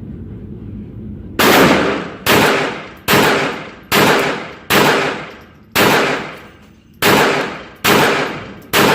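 Walther P22 .22 Long Rifle pistol firing nine shots about a second apart, each crack fading out in a short echo.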